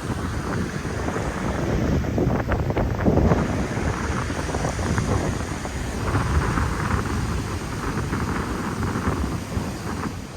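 Strong wind buffeting the microphone over ocean surf, in gusts, with the strongest gust about two to three seconds in.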